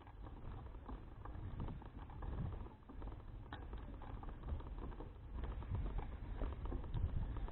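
Bicycle riding noise heard from an action camera mounted on the bike: a low, uneven wind rumble on the microphone with many light, irregular clicks and rattles from the moving bicycle.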